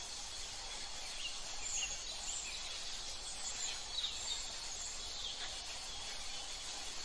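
Small birds calling in short high chirps and trills, a few in the first half, over a steady outdoor background hiss.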